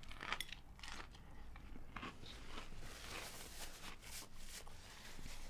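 A person biting into and chewing a burger topped with crushed potato chips, giving faint, crisp crunching. The first bite is the loudest crunch.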